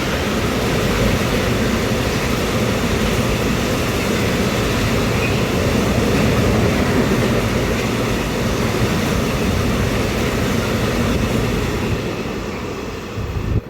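Train passing at close range: a steady, loud rumble and rush of wheels on the rails. It fades in the last second or two.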